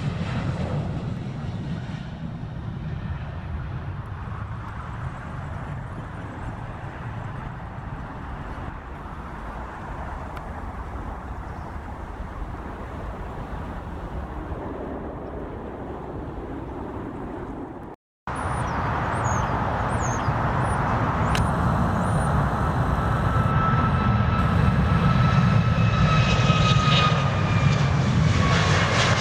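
Jet aircraft engines running as planes move on and around the runway: a steady rumble, then, after an abrupt cut about 18 seconds in, a louder jet with a high whine that slowly falls in pitch and grows louder toward the end.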